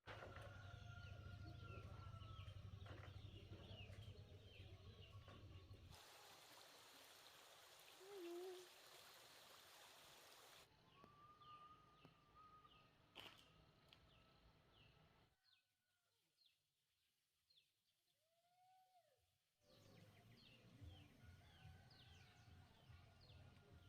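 Faint outdoor ambience with small birds chirping. The background hiss changes abruptly several times, as between separate recordings.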